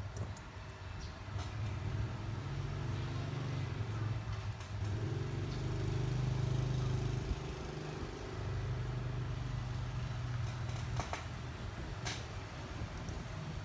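A steady low motor hum that shifts slightly in pitch a few times, with a few light clicks near the end.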